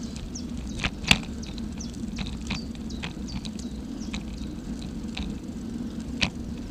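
Outdoor ambience: a steady low rumble with scattered short high clicks and chirps, and two sharper knocks, one about a second in and one near the end.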